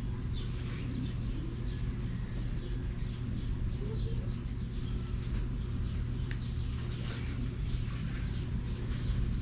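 Steady low hum with many short, high chirps repeating throughout.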